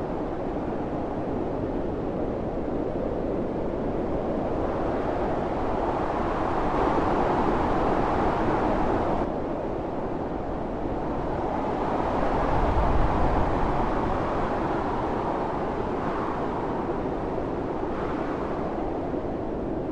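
Howling storm wind with blowing snow, a continuous rushing noise that swells in two gusts. The first gust breaks off sharply around the middle, and the second peaks about two-thirds through.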